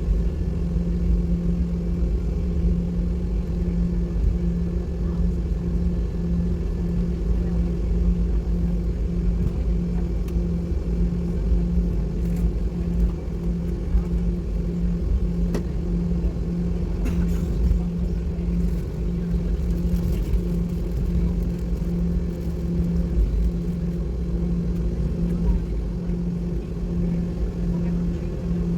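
Airliner cabin noise with the jet engines running before takeoff: a steady low rumble with a constant hum, heard from inside the cabin.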